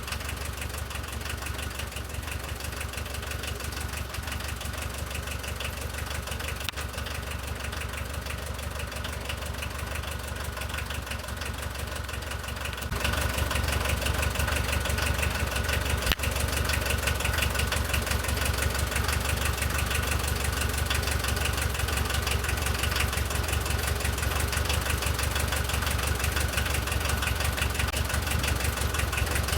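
Volkswagen T3's diesel engine idling steadily after its injection pump has been cleaned and refitted, still awaiting adjustment. It gets louder about thirteen seconds in.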